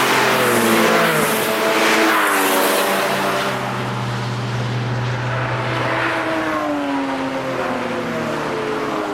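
Several cars passing one after another at speed, each engine note falling in pitch as it goes by. Tyre and wind rush comes with the passes in the first few seconds.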